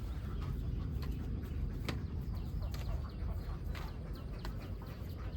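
Many short, sharp bird calls scattered over a steady low rumble.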